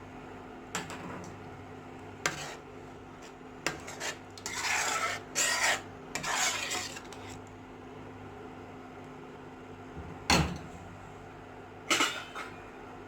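A metal spoon scraping and stirring in a cooking pot, stirring salt into the curry. There are a few light clicks before the stirring and two loud metal clunks near the end.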